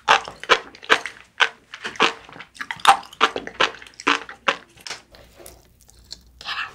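Close-miked chewing of a mouthful of sushi, with wet, crunchy bites about twice a second that die away about five seconds in.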